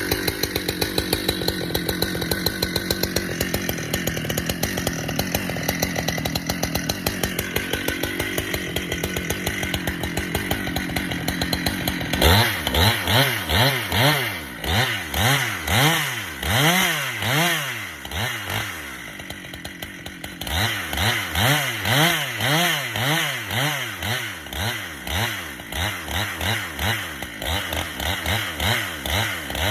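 Husqvarna two-stroke chainsaw bucking red oak. It runs steadily at high revs for about twelve seconds. It then revs up and down over and over, about once a second, for the rest of the time.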